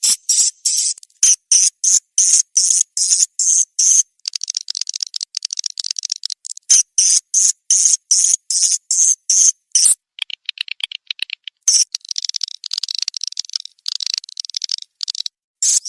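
Swiftlet lure call: rapid, high-pitched chirping twitters of swiftlets repeating in quick pulses, with a denser, lower warbling twitter for a few seconds after the middle. This is the kind of call played in swiftlet houses to draw the birds in to roost and nest.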